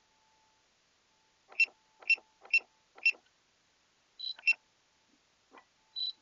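Four sharp clicks about half a second apart, then a click paired with a short high beep and another short high beep near the end: button presses and beeps from a handheld drone remote controller.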